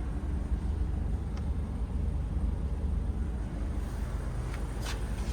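Mitsubishi Space Runner's 2.4 GDI petrol four-cylinder engine idling with a steady low hum, with a couple of light clicks near the end.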